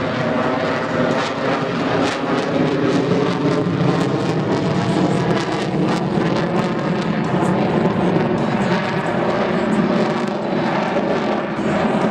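Lockheed Martin F-22 Raptor's twin F119 jet engines during a demonstration flight: loud, continuous jet noise with a dense crackle.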